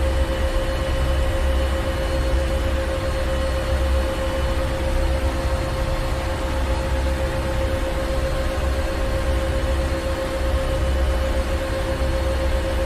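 Ship's engine room: heavy marine engine running at a steady speed, a deep pulsing rumble under a constant hum and machinery hiss.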